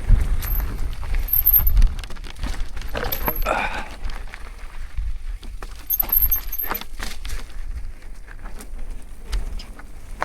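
Marin Alpine Trail 7 mountain bike rattling and clicking as it rolls down a rough trail, with many small metallic knocks. A low wind rumble on the microphone is strongest in the first two seconds.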